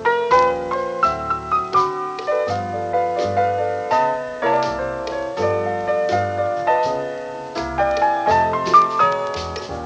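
Background piano music, a melody over a moving bass line.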